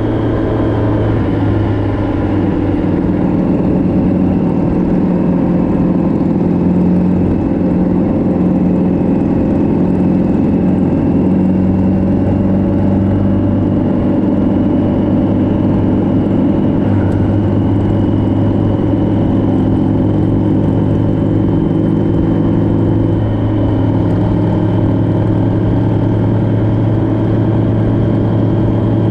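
Vehicle engine running steadily on the road, its pitch holding nearly level with only slow, slight shifts.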